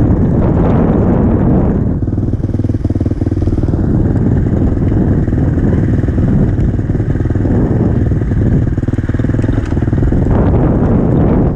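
Enduro motorcycle engine running hard for about two seconds, dropping to a lower, evenly pulsing run, then picking up again near the end.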